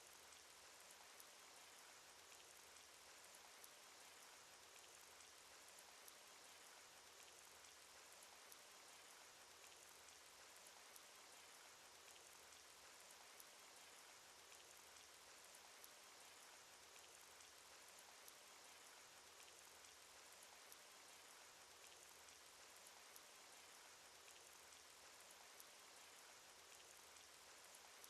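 Faint, steady rain sound effect from a cartoon: an even hiss of rainfall with scattered small drop ticks.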